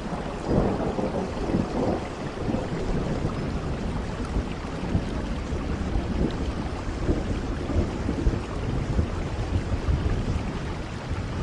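Steady heavy rain, with low thunder rumbling through it and swells in loudness about half a second in and near the end.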